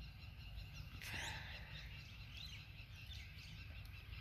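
Several birds chirping and calling in quick short glides, faint, with a louder call about a second in, over a low steady rumble.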